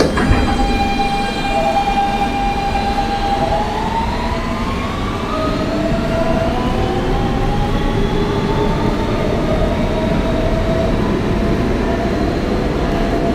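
Kawasaki R160B subway car with Siemens AC traction propulsion: a thud as the doors shut at the start, then the pulling-away whine of the traction inverters and motors. The whine holds one pitch for a few seconds and then climbs in several rising tones as the train gains speed, over the rumble of the wheels on the track.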